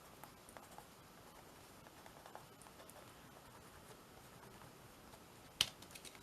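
Faint, scattered scratches and light taps of art materials being worked and handled on a small canvas, with one sharp click near the end.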